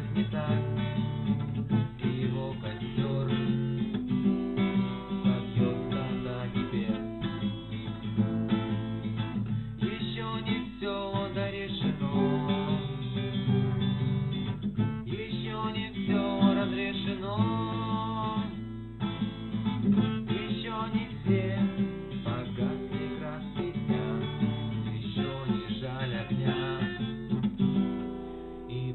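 Acoustic guitar strummed and picked, playing a song accompaniment.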